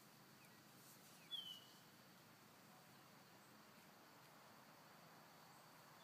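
Near silence outdoors, broken by a bird's short, high call that slides downward in pitch about a second in; a second call like it starts right at the end.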